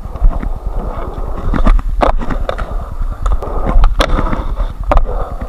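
Skateboard rolling over concrete, its wheels giving a steady low rumble, with sharp clacks of the board and trucks about two, four and five seconds in.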